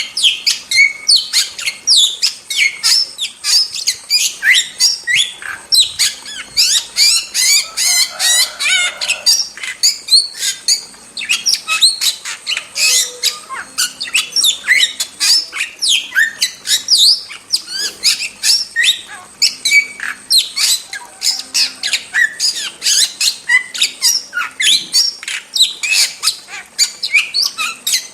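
Starling (jalak) singing non-stop in a fast, dense run of harsh squawks and sharp chirps, several notes a second.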